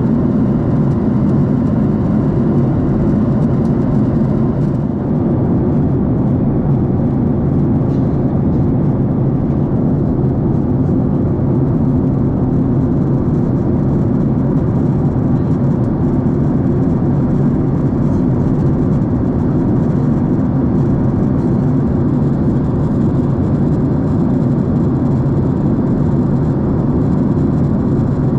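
Steady cabin drone of a Boeing 767 airliner, the engines and rushing air heard from inside the passenger cabin. It is loud, low and even throughout, with no changes in pitch or level.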